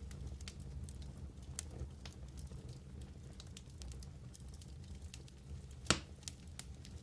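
Wood fire burning in a fireplace: a steady low rumble with scattered sharp crackles throughout and one loud pop about six seconds in.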